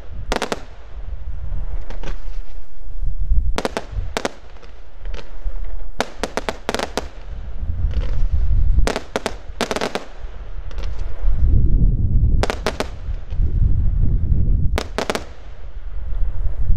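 Professional fireworks display: clusters of sharp cracks and bangs every second or two as shells and mines burst, over a low rumble.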